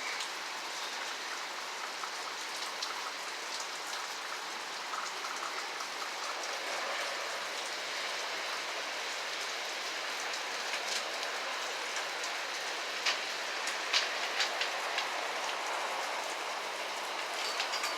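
Steady heavy rain from a hurricane, an even rushing hiss with scattered sharper drip taps, a few louder ones after about thirteen seconds.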